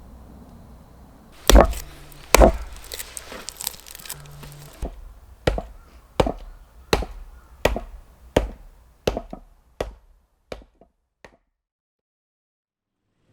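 Repeated sharp chopping blows: two loud strikes, then a steady run of strikes about 0.7 s apart that fade away before the sound cuts off.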